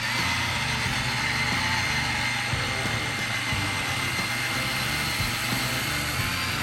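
Electric motors and gearboxes of a radio-controlled construction vehicle running with a steady high whine over a low hum.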